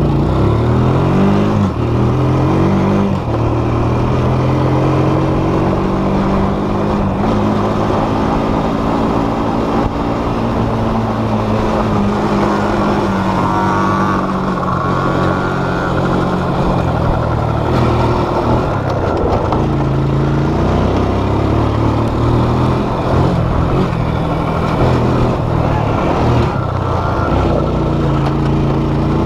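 Off-road vehicle engine being ridden, its pitch rising and falling again and again as the throttle opens and closes, over a steady rush of noise.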